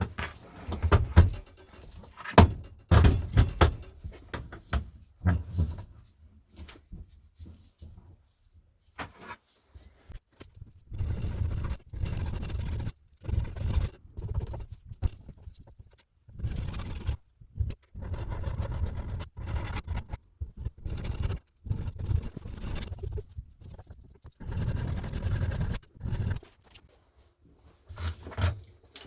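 Hand file scraping across a steel drill-press shaft to open up a thread that has closed up, in repeated strokes with short pauses, after a few sharp metal knocks at the start.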